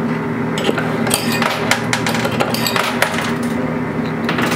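Quarters clicking and clinking as they drop into a coin pusher machine: a dozen or so sharp clicks at uneven intervals, over steady background music.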